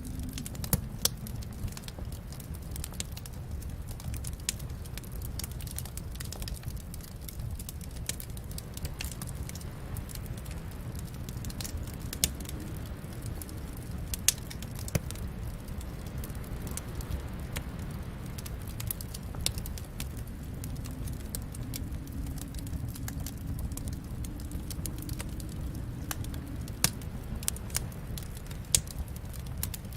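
Wood fire burning in a fireplace: a steady low rumble of flames with scattered crackles and sharp pops of burning wood.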